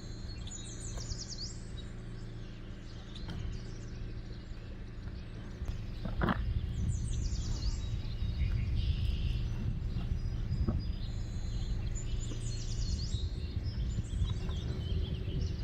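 Outdoor ambience: a songbird repeats a short, high, rapid song phrase three times, about six seconds apart, over a steady low rumble.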